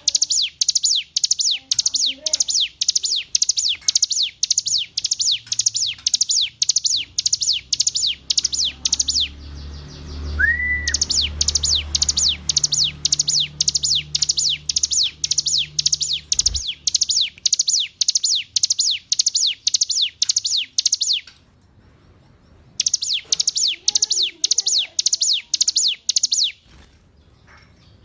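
Ciblek gunung, a prinia, singing: a fast, even series of high downward-slurred notes, about three a second, broken by short pauses about 9 s and 21 s in and near the end.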